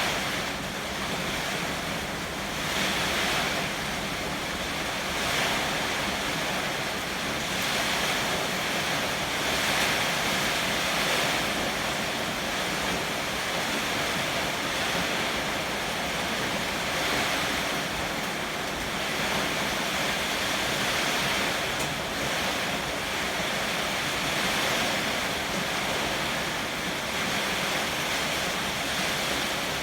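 Heavy rain pouring in strong wind: a steady rushing that swells and eases every few seconds as the gusts come and go.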